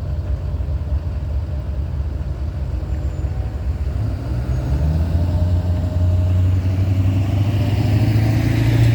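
A heavy engine running with a low rumble that grows louder, its pitch rising a little from about halfway through.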